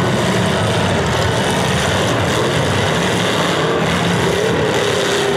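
Several demolition derby cars' engines running hard together, a dense steady din with one engine's pitch wavering up and down near the end as it revs.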